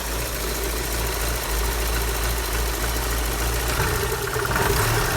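BMW M40B16 1.6-litre four-cylinder engine from an E36 idling steadily after a good start, a little louder near the end.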